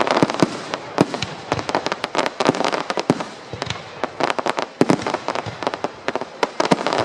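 Fireworks display: a dense, irregular string of bangs and crackles from bursting shells, several a second.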